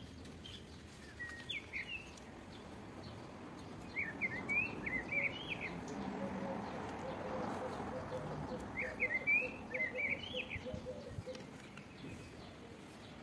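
A small songbird singing short phrases of quick chirping notes, three times a few seconds apart, over a soft outdoor hiss.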